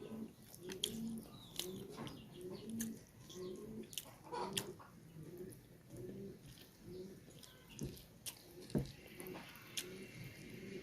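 A pigeon or dove cooing steadily in the background, a low call repeated about every half second. Scattered sharp clicks and smacks of someone eating are heard over it.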